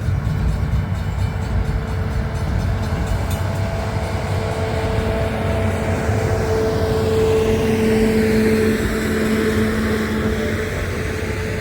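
CPKC Christmas train passing on the rails, a steady rumble of wheels and cars, with a humming tone that swells through the middle and fades near the end.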